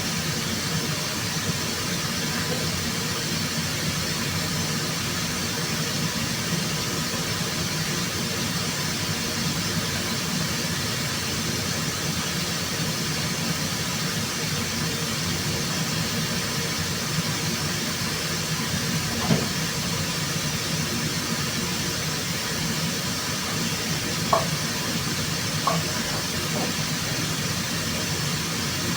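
Steady machine hum with a hiss, with a few short sharp clicks in the second half.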